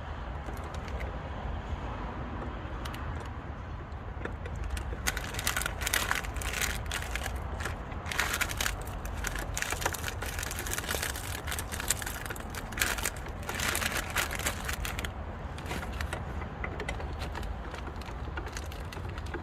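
Clicks and rattles of plastic trim parts being handled and pushed back into place at a car's tail light. A dense run of them comes from about five seconds in to about fifteen, over a steady low rumble.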